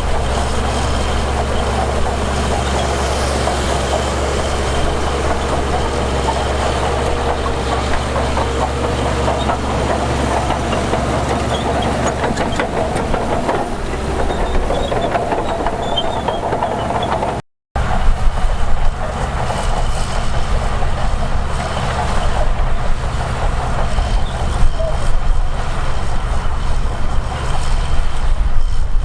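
Heavy diesel earthmoving machinery running steadily with a deep engine drone, broken by a brief silent cut about two-thirds of the way through, after which the engine sound is rougher and varies more in loudness.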